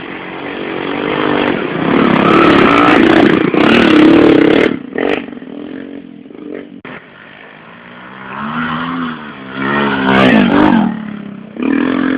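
110cc motorcycles racing past on a sand track, their engines revving hard. One builds up and passes close in the first five seconds; another approaches about eight seconds in with its engine note climbing and peaks around ten seconds, then a short burst of engine near the end.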